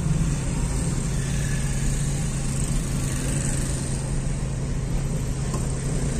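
A car's engine running, heard from inside the cabin as a steady low hum, with road and traffic noise around it.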